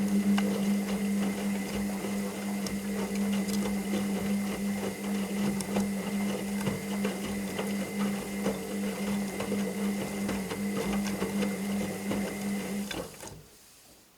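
Washing machine running a stretch of its wash cycle: a steady motor hum with scattered clicks and knocks as the drum turns, which stops about thirteen seconds in.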